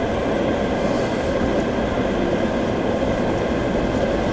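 Steady rumble of a Jeep Wrangler on the move, engine and tyre noise heard from inside the cabin.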